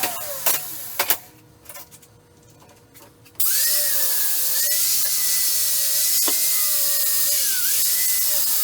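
Electric power tool cutting metal: its motor winds down just after the start, falls quiet for about two seconds, then starts abruptly and runs steadily, the pitch dipping briefly under load near the end.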